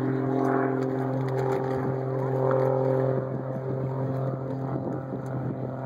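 Motorboat engine running at a steady pitch, holding an even speed.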